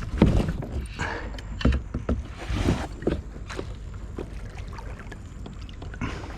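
Irregular knocks and splashes of water around a kayak, over a steady low rumble of wind on the microphone.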